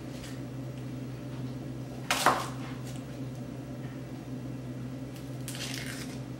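Kitchen prep sounds over a steady low hum: a sharp knock about two seconds in, and a brief scraping rustle near the end, as a shallot is handled on the cutting board.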